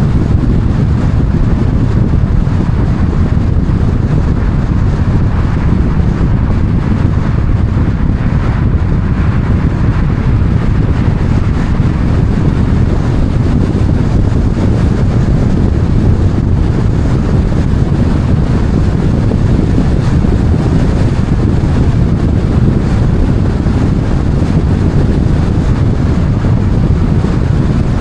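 Steady, loud low rumble of a moving vehicle with wind noise on the microphone, unchanging throughout.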